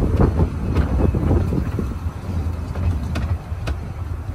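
A 2 ft narrow-gauge railway coach running along the track: a steady low rumble with a few sharp clicks, mixed with wind on the phone's microphone.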